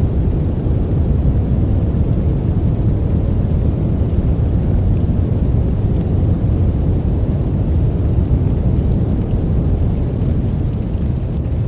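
Steady noise track for sleep, a deep, even hiss with most of its weight in the low end, like brown noise, unchanging throughout.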